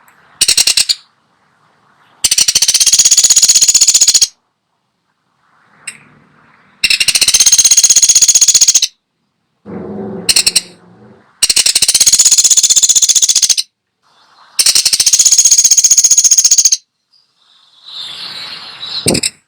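Woodpecker (pelatuk sampit) giving rapid, high rattling trills: four long ones of about two seconds each with short pauses between, plus shorter bursts near the start and middle.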